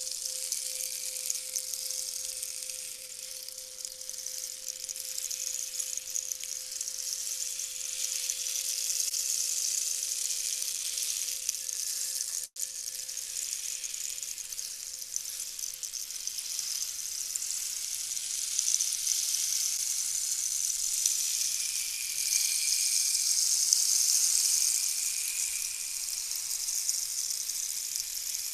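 Steady high, sizzling hiss that swells louder in the second half, with a single ringing tone fading out over the first half.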